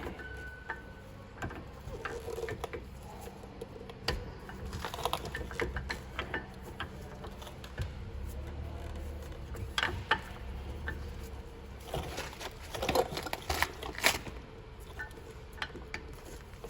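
Irregular metal clicks, taps and scraping as a rear brake pad is worked into a brake caliper, with clusters of sharper clicks about ten seconds in and again around thirteen to fourteen seconds in.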